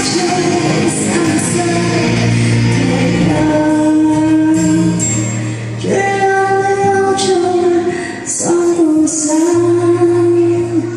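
Female singer performing live with band accompaniment, holding long sustained notes that step to a new pitch twice.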